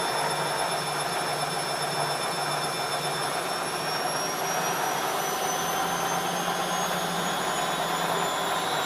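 ELIN A 100 E washing machine running with a steady mechanical noise and a high motor whine that slowly rises in pitch from about halfway through, as the machine speeds up.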